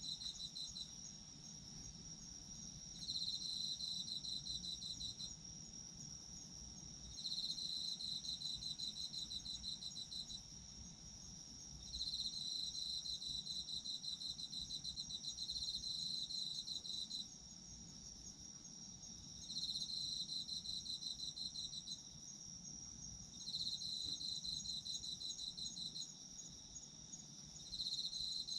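Autumn crickets singing: one steady high trill throughout, overlaid by another insect's pulsed chirping that comes in bouts of a few seconds each, about seven times, with short pauses between.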